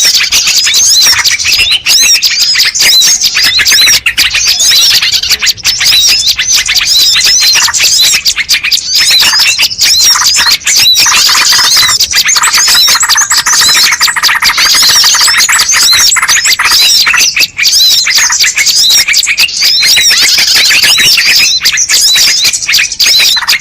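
Bird-lure recording of many small birds calling at once: a loud, dense, unbroken chatter of rapid high-pitched chirps and twitters, with lower chattering calls joining in near the middle.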